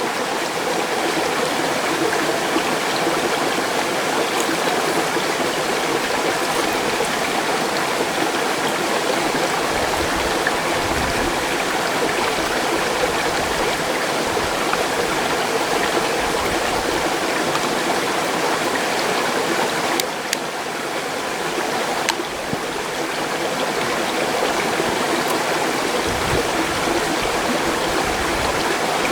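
Mountain stream rushing steadily, with a couple of faint clicks about two-thirds of the way in.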